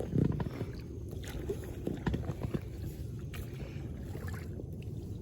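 Small inflatable fishing boat under way on a pond: a steady low rumble on the water with irregular short knocks and splashes.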